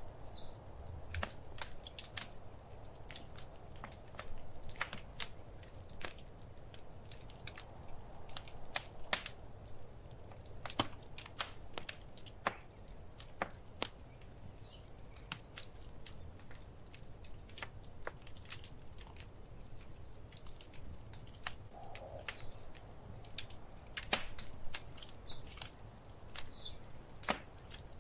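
Wood fire crackling, with irregular sharp pops and snaps over a soft, steady low rumble of burning.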